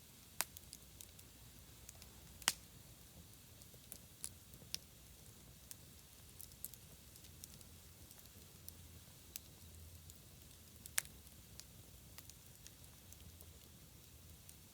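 Wood campfire crackling: scattered sharp pops, the loudest about two and a half and eleven seconds in, over a faint low rumble.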